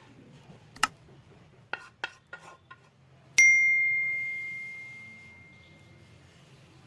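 A few light clicks, then a single sharp strike on metal that rings at one clear high pitch and fades away over about three seconds, like a bell or a struck steel bowl.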